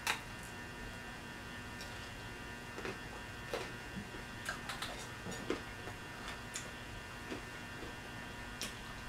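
Pizza being bitten and chewed up close: a sharp bite at the start, then scattered, irregular mouth clicks and soft crunches over a steady faint electrical hum.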